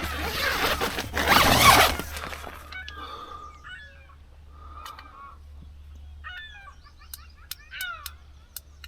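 A loud rustling noise for about the first two seconds, then birds chirping: repeated short calls that fall in pitch.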